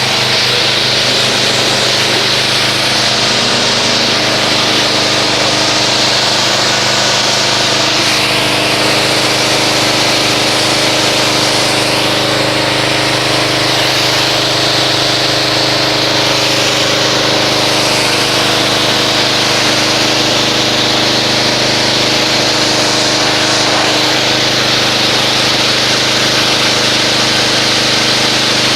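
Pressure washer running steadily, its motor and pump giving an even hum under the hiss of the water jet rinsing foam off a car.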